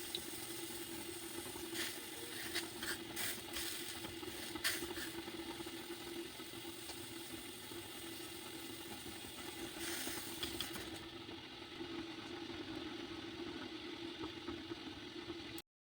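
A steady mechanical hum, with a few clicks and clatters in the first several seconds, that cuts off abruptly near the end.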